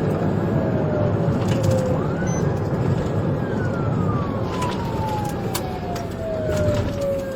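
Police car siren on a slow wail: one long falling sweep, a rise about two seconds in, then another long fall. Steady engine and road noise runs under it.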